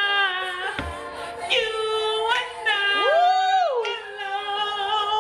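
A person singing unaccompanied in long held notes, with a brief break about a second in and a swoop up in pitch and back down about three seconds in.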